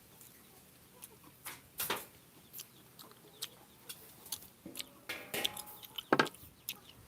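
Close-up sounds of eating rambutan: scattered sharp clicks and smacks as the fruit is chewed and its rind cracked open, the loudest about six seconds in. A brief clucking call comes about five seconds in.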